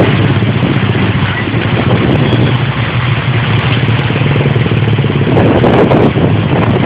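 Vehicle engine running steadily under a dense hiss, likely rain.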